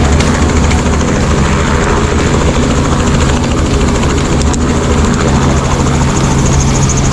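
Helicopter in flight, its engine and rotor running with a loud, steady drone and a constant low hum.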